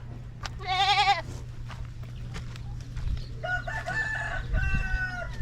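A goat gives one short quavering bleat about a second in, then a rooster crows from about three and a half seconds in.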